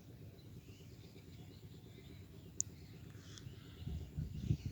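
Quiet rural outdoor ambience with a faint low background hum, a single short high bird chirp a little past halfway, and uneven low rumbling near the end.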